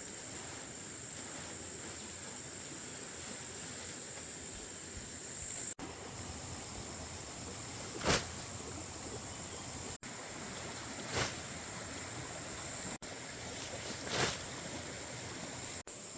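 Crickets or other insects chirring in one steady high pitch over a steady rushing background. Three short, sharp louder sounds come about halfway through and twice more near the end.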